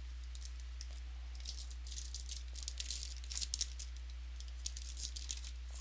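Trading cards and their pack wrapping being handled: quick crisp clicks and crinkles in two flurries, the first about a second and a half in and the second near the end, over a steady low hum.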